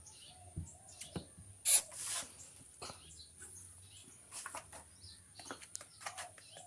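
Scattered clicks, knocks and small squeaks from a water hose being fitted by hand to a top-load washing machine. There is one louder, brief hissing scrape about two seconds in.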